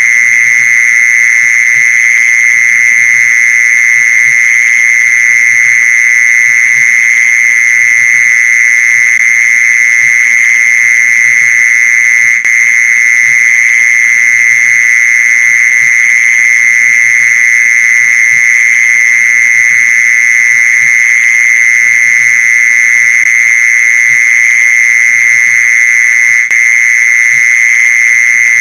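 Mole cricket calling: a loud, steady, unbroken trill at one high pitch.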